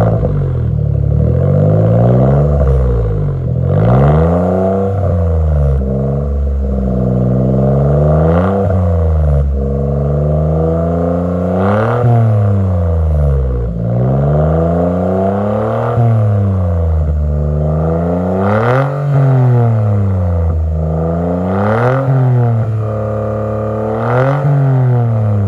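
Suzuki JB23 Jimny's 660 cc turbocharged three-cylinder engine breathing through a one-off custom muffler, revved up and dropping back to idle over and over, a rev about every three seconds.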